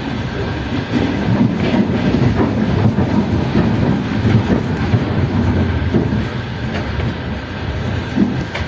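Passenger train running on the track: a steady rumble of the wheels, with a few sharp clicks as they pass over rail joints.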